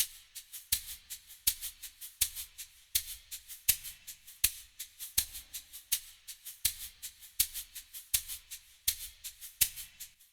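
Background music stripped down to a lone shaker rhythm of short hissing strokes, with a stronger accent about every three-quarters of a second and softer strokes in between.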